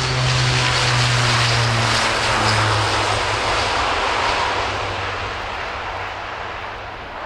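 Airbus A400M's four turboprop engines at full power on the take-off run: a deep propeller hum over a broad roar that drops slightly in pitch a few seconds in as the aircraft passes, then slowly fades.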